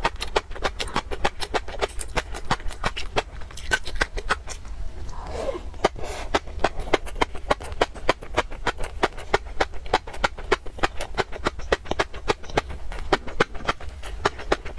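Close-up mouth chewing of fish roe, the eggs bursting in crisp pops several times a second.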